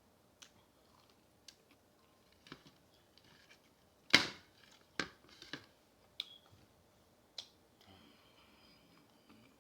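Eating fried chicken and french fries close to the microphone: scattered sharp crunches and clicks, the loudest about four seconds in.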